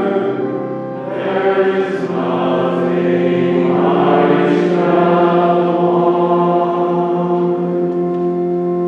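Church music: voices singing over an accompaniment of long held notes, ending on a sustained chord near the end.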